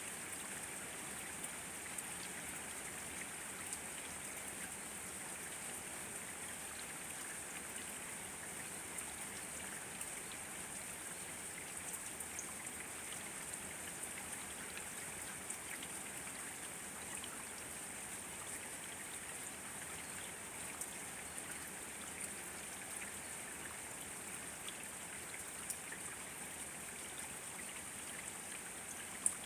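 Steady rain falling, an even hiss with scattered drop ticks and one sharper tick just before the end.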